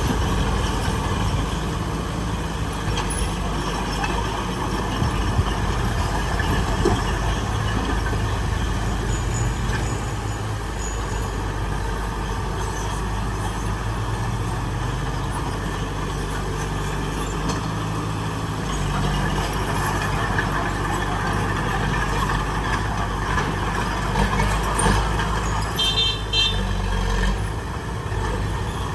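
Heavy diesel earthmoving machinery running steadily, its engine note shifting up and down now and then as it works. A brief high chirping comes about 26 seconds in.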